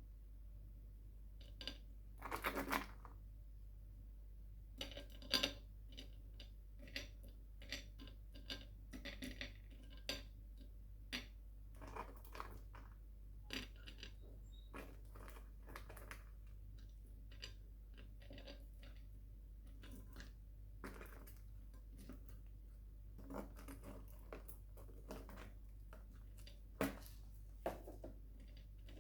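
Scattered light clicks, taps and short rustles of sweets being handled and eaten, some louder than others, over a faint steady low hum.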